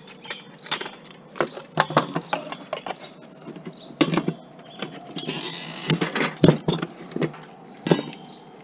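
Irregular clicks, knocks and rattles of plastic and metal parts being handled as an electronic device is taken apart for scrap, with a short scraping hiss partway through.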